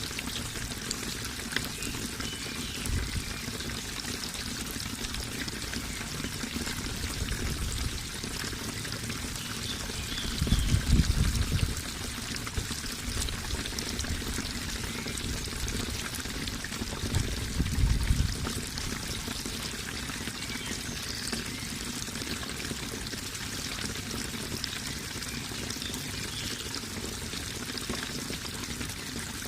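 Running water, a steady splashing and trickling flow, with a few brief low rumbles, the loudest about eleven and eighteen seconds in.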